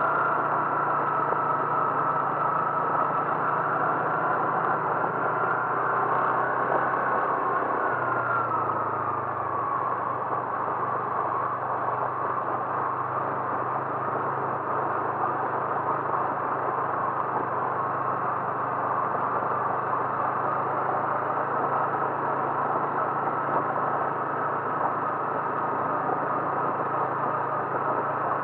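Motor vehicle running steadily, engine hum with road noise; the engine note drops slightly about eight seconds in, then holds steady.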